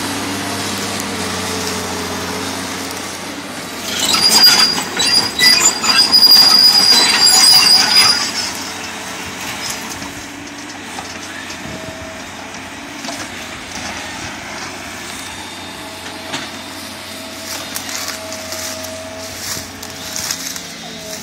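Vicort 240 wood-cutting machine running, then cutting into eucalyptus wood from about four to eight seconds in, a much louder stretch with a high steady whine and rapid rattling. After the cut it runs on more quietly with scattered clicks.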